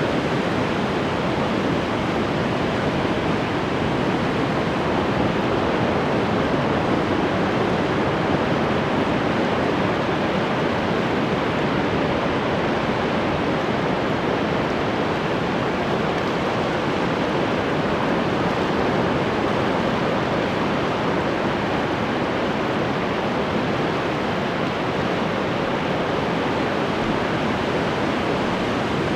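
Ocean surf: a continuous wash of breaking waves, steady with only gentle swells in loudness.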